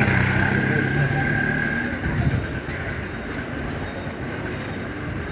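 Local passenger train running on the rails. A steady whine and a low hum fade after about two seconds, and a brief high wheel squeal comes about three seconds in.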